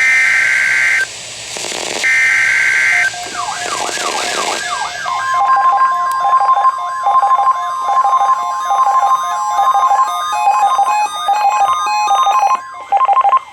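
Emergency Alert System SAME header: two one-second bursts of harsh digital data tone, a second apart. Then a warbling, siren-like alert tone sweeping up and down, with a steady high tone over it for several seconds, ending in a few short pulsed beeps.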